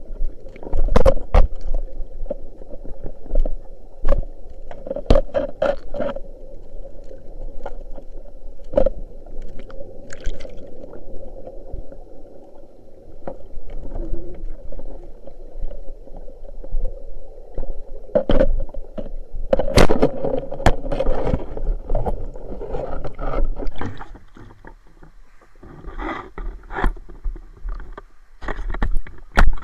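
Water sloshing and splashing around a spearfisher moving in a river, with repeated sharp knocks and a steady low hum.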